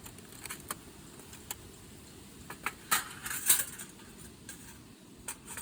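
Metal parts of a collapsible fire pit clinking and clicking as it is put together: scattered light clicks, with a louder flurry of metal rattling about three seconds in.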